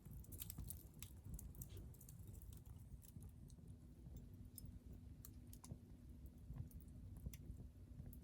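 Hardwood firewood burning in a Picogrill fire stand, faintly crackling with scattered small pops over a low rumble.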